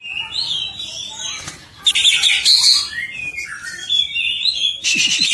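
A cucak ijo (leafbird) singing a loud, fast, varied warbling song of quick whistled and chattering phrases, delivered in an agitated, fired-up state. The song grows louder and denser about two seconds in and again near the end.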